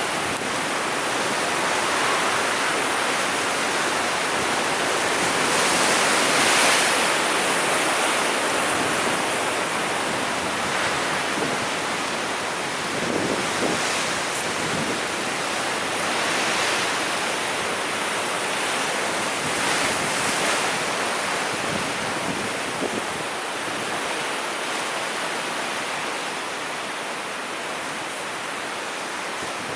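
Sea waves breaking and washing on the shore, a steady rush of surf that swells and eases every few seconds.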